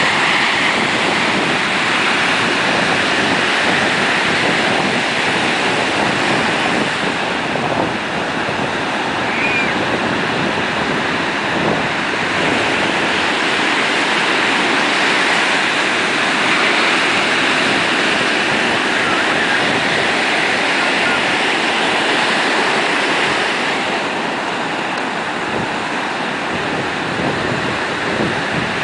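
Big ocean surf breaking and washing up the beach: a continuous rush of water that swells and eases over several seconds at a time.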